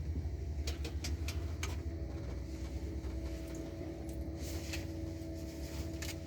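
Steady low hum of a Boeing 787 flight deck running on electrical power. A few sharp clicks come about a second in, then a steady whine sets in and holds as the APU is switched on and its intake door is commanded open, before the APU has started.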